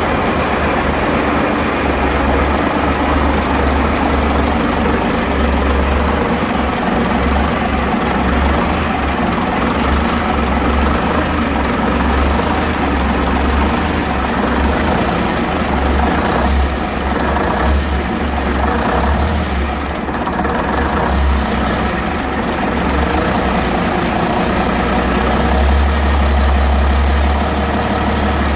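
Gardner 6LYT six-cylinder diesel engine, about 50 years old, running steadily on test after being reassembled.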